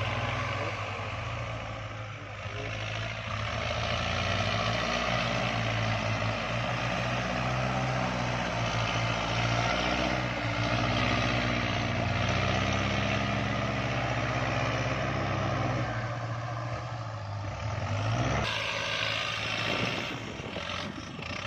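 Kubota tractor's diesel engine running steadily under load while driving a rotary tiller through wet soil. The low engine note drops away about three quarters of the way through.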